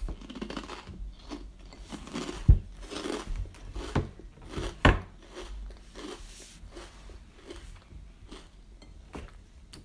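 Close-up chewing and biting of crunchy snack chips: a run of dry crunches and crackles, with two louder thumps about two and a half and five seconds in.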